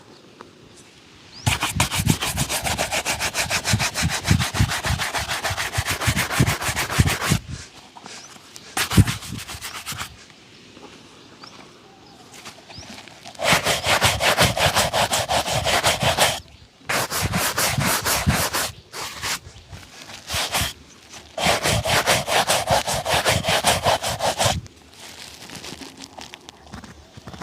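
A shoe being buffed in fast back-and-forth strokes, several a second, during a shoe shine. The buffing comes in four runs of a few seconds each, with short pauses between them.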